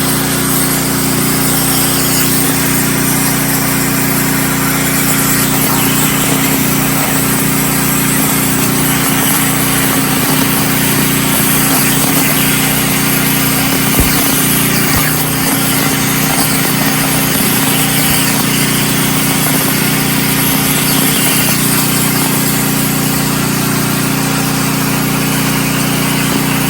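CNC plasma cutter cutting 1/16-inch hot-rolled steel plate: a loud, steady hiss of the arc and air over the steady drone of a portable generator's engine, with a single click about halfway through.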